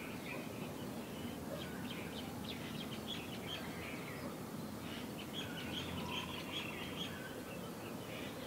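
Small birds chirping in quick runs, in two bouts, over a steady low background rumble.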